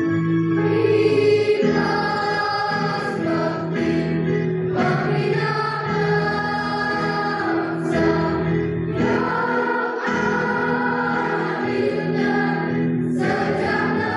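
School choir singing in several voice parts together, holding notes that change every second or two.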